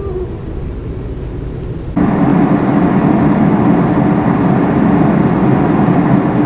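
Steady in-flight cabin noise of a Boeing 747, the even rush of engines and airflow, which jumps abruptly louder about two seconds in.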